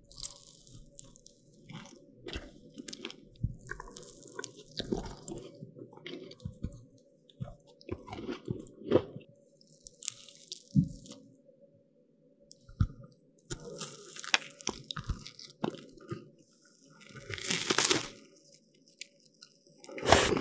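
Close-miked eating of crisp, flaky pastries: sharp bites and crackles with softer chewing between, and a longer stretch of crackling near the end.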